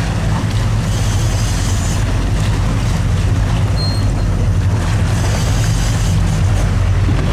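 Fishing boat's engine running steadily with a low drone, with wind and water noise over it.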